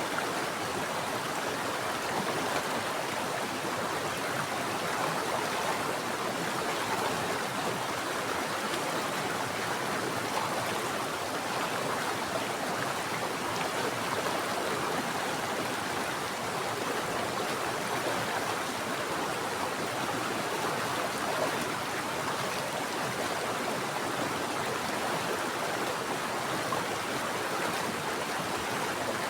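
Mountain stream water flowing over rocks, a steady even rushing without breaks.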